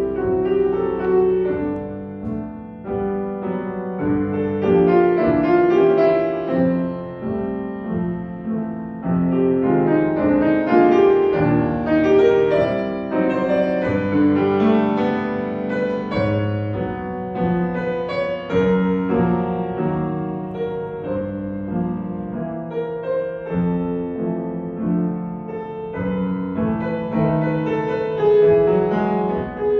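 Solo piano playing a flowing piece of melody over chords.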